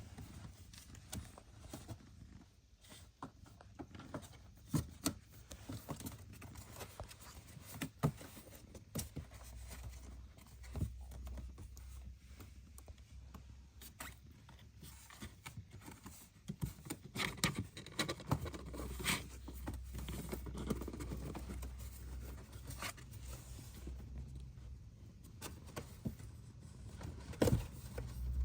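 Kittens nursing and shuffling: scattered small clicks, scratches and rustles, with a low steady rumble from about ten seconds in.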